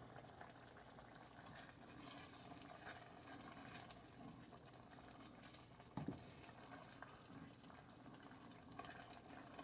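Faint bubbling of a cream and Parmesan sauce simmering in a skillet as it thickens, with one brief knock about six seconds in.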